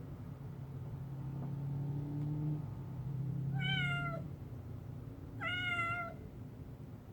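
Domestic cat meowing twice, two separate calls about a second and a half apart, each dipping slightly in pitch at the end, over a low steady hum.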